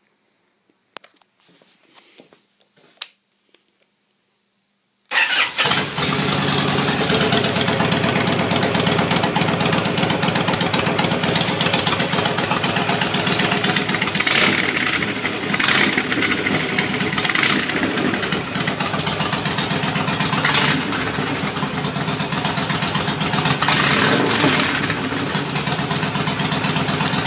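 Kawasaki Mean Streak V-twin motorcycle started, firing abruptly about five seconds in after a few faint clicks, then idling loud through 2.5-inch Hard Krome Stripper exhaust pipes, with several short throttle blips.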